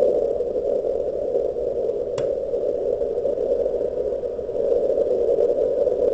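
160-meter band static from a shortwave ham receiver: a steady, narrow, fairly low-pitched rush of noise, with a single sharp click about two seconds in.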